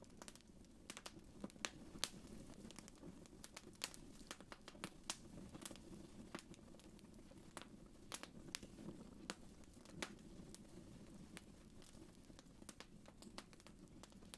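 Wood fire crackling: irregular sharp pops and snaps, several a second at times, over a soft low rush of the flames.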